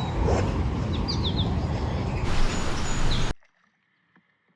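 Loud, rumbling outdoor noise with a bird chirping a few times in short, falling notes about a second in. The noise cuts off abruptly after about three seconds into near silence.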